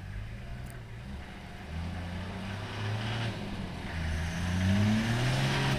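Old Toyota Land Cruiser's engine revving under load as it drives up a muddy slope with a run-up. It gets steadily louder, and its pitch climbs in steps, rising further near the end.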